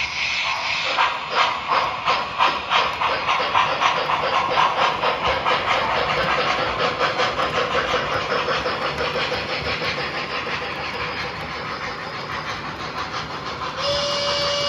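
MTH model steam locomotive's sound system chuffing as the engine pulls away, the chuffs starting slowly and quickening into a fast, even rhythm over a steam hiss. A steady tone comes in near the end.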